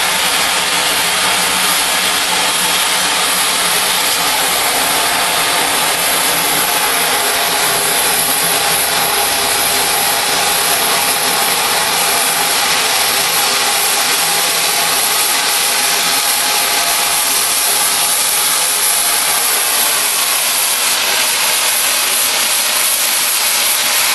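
Oxy-fuel cutting torch cutting through steel railroad rail, a loud, steady hiss of the cutting-oxygen jet that holds unchanged throughout.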